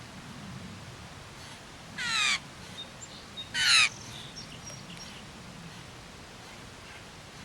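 A bird calls twice, loudly, about a second and a half apart. Each call is a short, rapid trill lasting under half a second.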